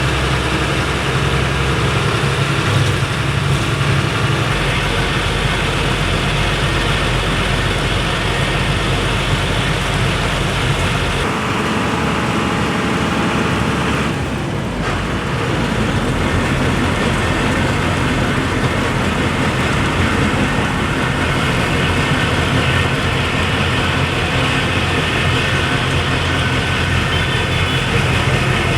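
Truck engine and road noise while driving, steady throughout, with a brief dip in level about halfway.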